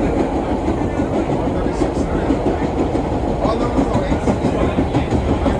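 Vintage 1930s R1-9 subway car running along the track: the steady rumble of steel wheels on rail and the rattle of the moving car.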